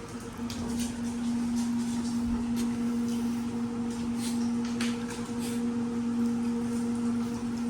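A steady mechanical hum on one low tone, with scattered light clicks and taps over it.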